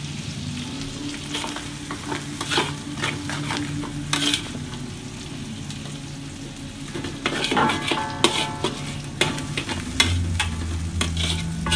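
Curry leaves and ground spice paste sizzling in hot oil in a metal wok, while a metal spatula stirs and scrapes against the pan with repeated clicks and scrapes, busiest about two-thirds of the way through. A low steady hum sits underneath.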